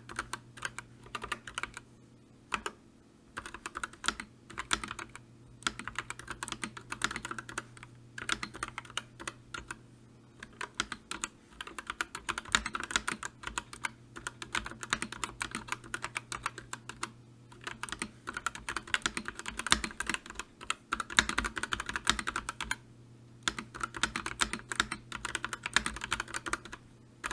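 Typing on a computer keyboard: fast runs of key clicks with brief pauses between them.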